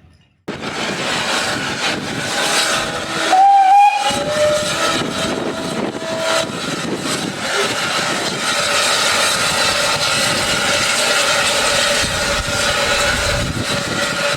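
SE&CR O1 class steam locomotive departing with a goods train: its whistle sounds briefly about three and a half seconds in, over a steady hiss of steam that runs throughout.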